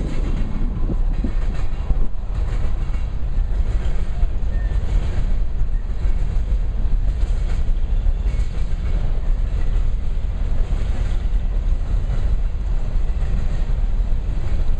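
Freight train rolling past, a steady low rumble of cars and wheels on the rails.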